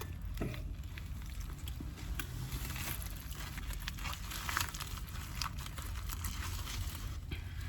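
Irregular crinkling and rustling of food packaging being handled, over a steady low rumble.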